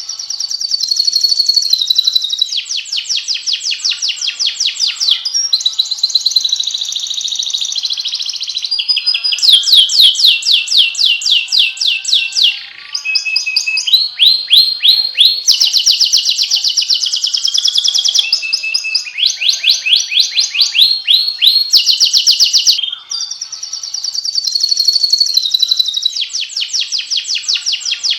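Domestic canary singing a long continuous song of fast trills, each a quick run of repeated high notes that switches to a new phrase every few seconds, with brief pauses about 13 and 23 seconds in.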